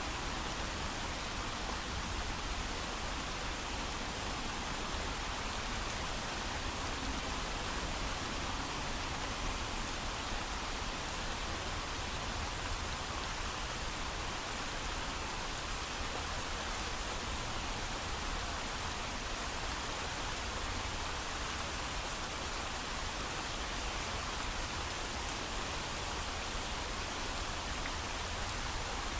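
Steady heavy rain falling, an even hiss with no thunder and no single drops standing out.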